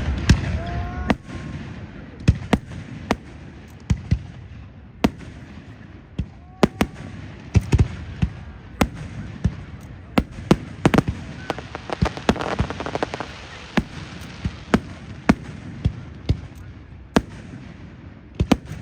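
Aerial fireworks display: a string of sharp bangs at irregular intervals, several a second at times, with a denser burst of crackle about twelve seconds in and the hubbub of a crowd underneath.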